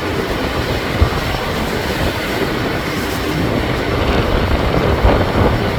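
Loud, steady rumbling of wind and rough sea water, with a brief low thump about a second in.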